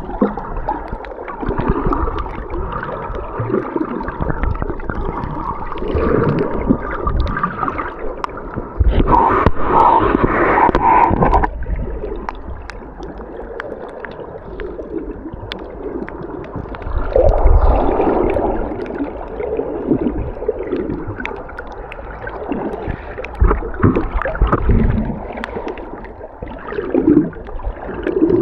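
Water gurgling and sloshing around a camera as it goes underwater and back to the surface while snorkelling, with louder rushes of water about nine seconds in and again around seventeen seconds.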